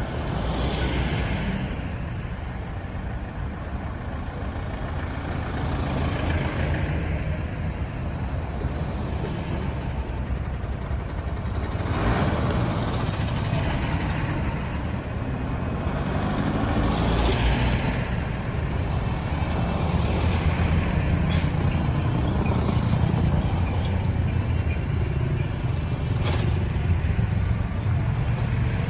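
Road traffic noise: a steady low rumble of engines and tyres, with other vehicles swishing past every few seconds and a few sharp clicks near the end.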